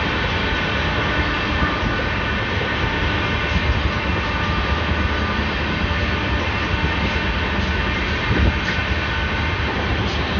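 Trains running at speed on the rails: a steady rumble of wheels and track with a few faint knocks.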